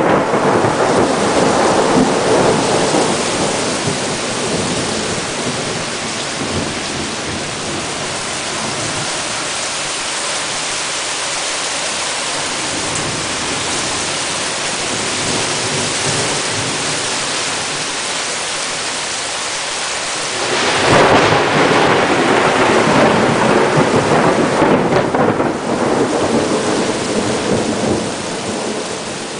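Heavy, driving rain pouring down: a dense, steady hiss of rainfall that swells suddenly louder about two-thirds of the way through.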